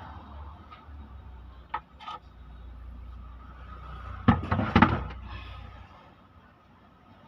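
Metal tools and engine parts being handled: two light clinks about two seconds in, then a loud cluster of clanks and knocks about four seconds in, over a low rumble that stops near the end.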